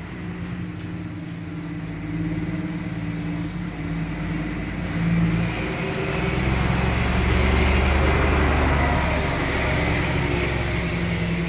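A motor vehicle's engine running, with a low rumble that swells about six seconds in and stays loud for a few seconds.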